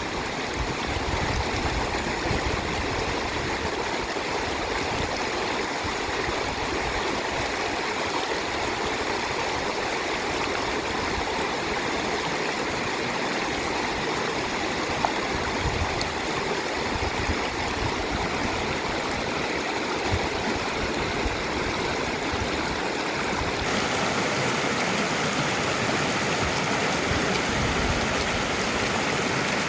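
Stream water flowing over its bed, a steady, unbroken rush. The rush changes slightly in character about three-quarters of the way through.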